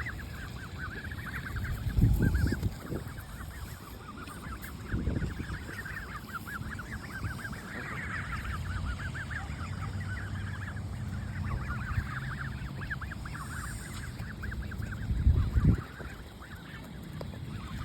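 A flock of young geese and ducks calling over one another without a break during feeding. A few dull thumps come through at about 2, 5 and 15 seconds.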